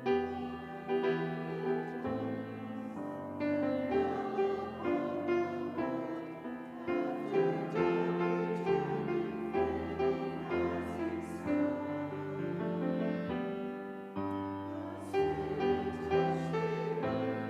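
Keyboard music: slow chords held for a second or two each over a moving bass line.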